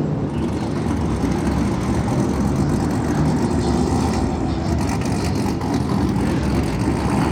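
Motor vehicle engines running steadily with a loud, low rumble.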